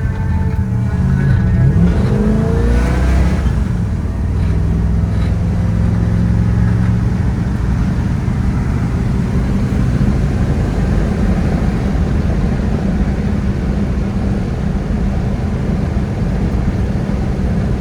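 A 1971 Chevrolet El Camino SS's 350 small-block V8 pulls the car under way. The engine's pitch rises over the first few seconds, then settles into steady running at cruising speed, with road noise.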